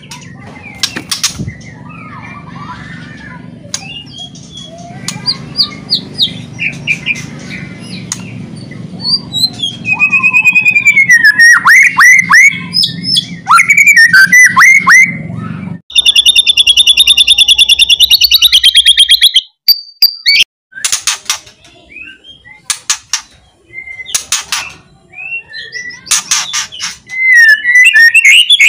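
White-rumped shama (murai batu) singing loudly: a varied song of whistled phrases and sharp downward-sweeping notes. About halfway through it gives a fast, crackling rattle (kretekan), with more short rattles near the end. A low hum lies under the first half and stops about halfway.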